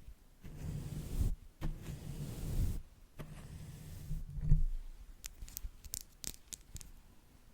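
Makeup brush swept across the microphone in two long, low rushing strokes, then a quick run of light, sharp taps from the brush or a makeup tool near the end.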